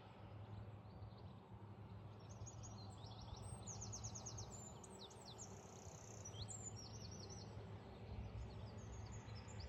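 Songbirds singing: bursts of high, rapidly repeated chirps and trills, over a faint low steady background noise.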